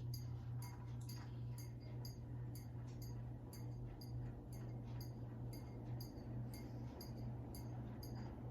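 Harbor Breeze Cheshire 42-inch ceiling fan running on high: a steady low motor hum with a faint, regular ticking about two to three times a second.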